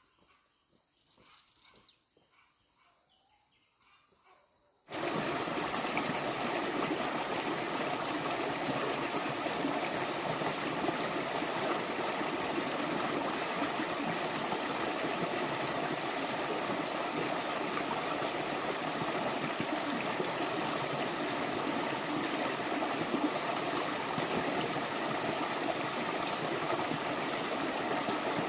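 Stream water running steadily. It cuts in abruptly about five seconds in, after a quiet stretch with a brief faint sound.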